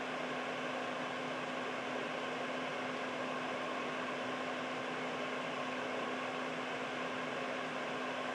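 Air purifier running steadily: an even fan whoosh with a constant low hum.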